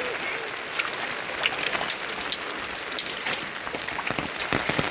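Steady rain falling, with scattered sharp drops and drips ticking against a surface and a cluster of louder knocks near the end.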